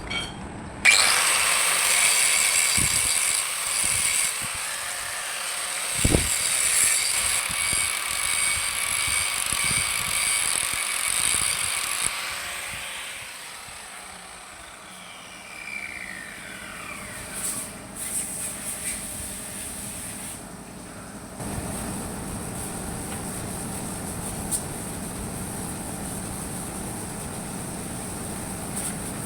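An electric power tool running with a high whine for about eleven seconds, then winding down. A lower, steady machine noise follows in the second half.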